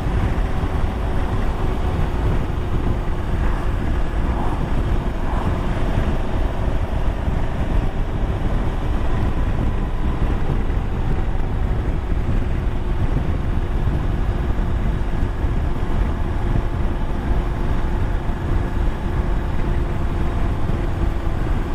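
Motorcycle engine running at a steady cruise, a faint even drone under heavy wind rush and buffeting on the microphone.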